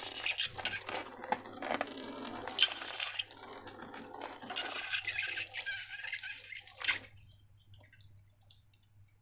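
Sticky, wet squelching and crackling of slime being mixed and squeezed by hand, full of small wet clicks; it stops about seven seconds in.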